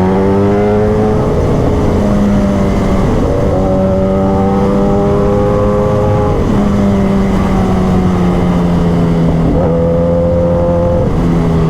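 Kawasaki ZX-10R inline-four running through an Austin Racing aftermarket exhaust at a steady cruise. Its note dips briefly a few times and drifts slowly lower near the end.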